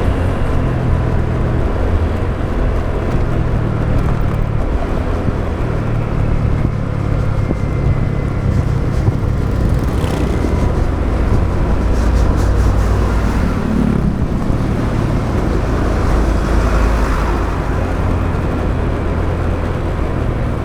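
Motorbike engine running as the bike rides along a road, recorded from the rider's own action camera, with road and traffic noise around it.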